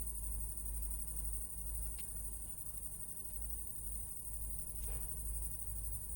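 Crickets chirping, a continuous high trill, over a steady low rumble, with two faint ticks about two and five seconds in.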